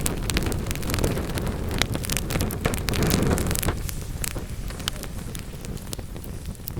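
Wood fire crackling and popping in a fireplace: many sharp snaps over a low rushing rumble that fades about halfway through, leaving sparser crackles.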